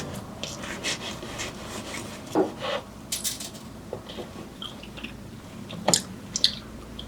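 Light kitchen handling sounds during food preparation: scattered small clicks and taps of utensils and food being handled, with a brief squeak about two and a half seconds in and the sharpest knocks about six seconds in.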